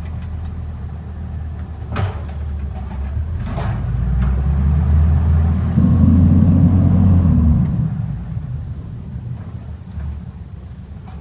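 Garbage truck engine rumbling, with a sharp clank about two seconds in and a softer one shortly after; the engine then revs louder for a couple of seconds before easing off.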